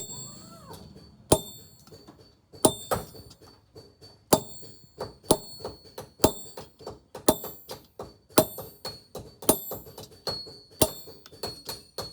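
Sharp metallic strikes, about one a second, each leaving a brief high ringing tone.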